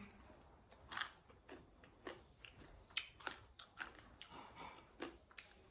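Close-up chewing of a mouthful of food, heard as irregular small crunches and clicks.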